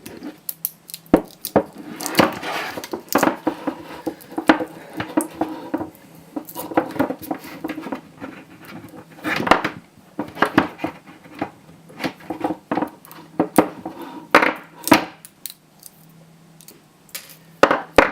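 Plastic casing of a laptop battery pack being pried and cut apart with a hand tool: irregular sharp clicks and cracks with stretches of scraping and creaking in between.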